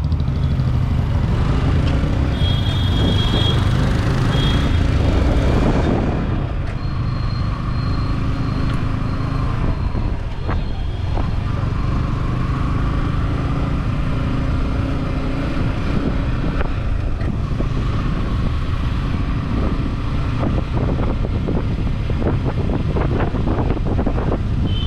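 Yamaha R15 V4's 155 cc single-cylinder engine running steadily while riding through city traffic, with wind rushing over the microphone.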